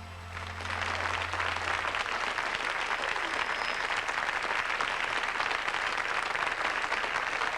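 Audience applauding, the clapping swelling in about half a second in as the last held note of the song dies away, then continuing steadily.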